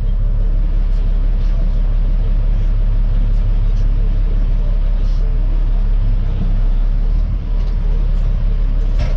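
Diesel dump truck running down the road, heard from inside the cab: a steady, loud low rumble of engine and road noise.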